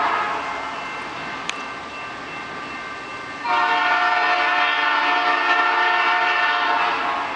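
Locomotive air horn on a GE AC4400CW sounding for a grade crossing: the end of one blast fades out at the start, then a long, loud blast of several steady tones begins about halfway through and holds for around three and a half seconds. A single sharp click comes between the two blasts.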